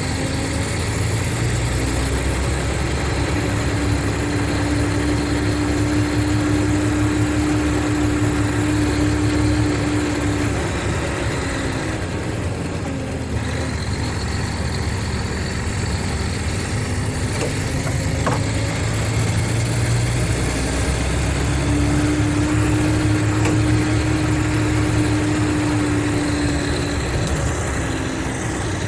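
Mercedes-Benz O500RSD coach's diesel engine running steadily. Twice a strong steady tone comes in and holds for about nine seconds, the low rumble swelling with it, then eases off.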